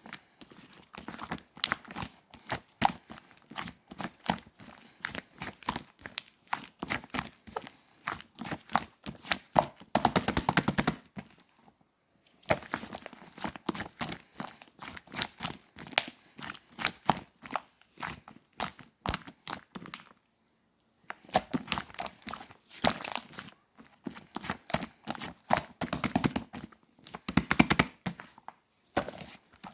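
Slime being squished and stretched by hand, making a dense run of sticky clicks and crackling pops, with two short pauses.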